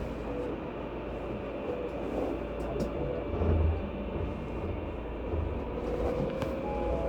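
Keisei 3700 series train's Toyo GTO-VVVF inverter whining over the rumble of the motors and wheels on rail as the train pulls away. A tone rises in pitch near the end as the train gathers speed.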